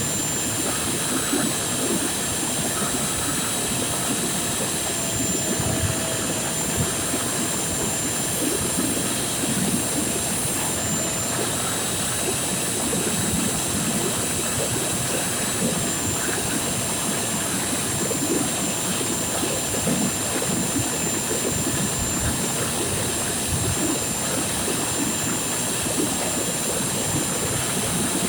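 Vacuum cleaner running steadily with a high whine, cleaning the car's interior, with irregular low rustles and knocks as the nozzle is moved about.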